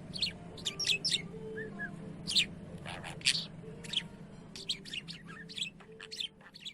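Budgerigar chirping: a quick, uneven series of short, sharp, high chirps, some sweeping down in pitch.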